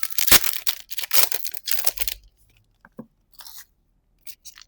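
Foil trading-card booster pack wrappers being torn open and crinkled: a dense run of tearing and crackling for about two seconds, then a few scattered softer rustles.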